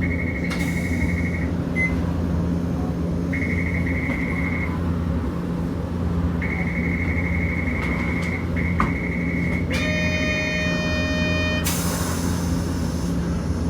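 Interior sound of a Hiroshima Electric Railway 650-type tram: a steady low hum from the car, with a high steady tone that comes and goes several times, and a short burst of hissing air about twelve seconds in.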